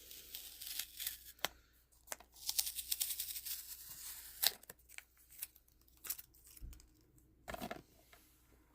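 Plastic DVD case being handled: a stretch of crinkling and tearing plastic about two to four seconds in, with scattered clicks and taps.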